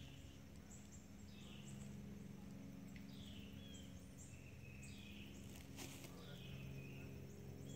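A bird calling over and over in quiet woodland, short curving calls about once a second, over a faint steady low hum. A single faint click comes a little before six seconds in.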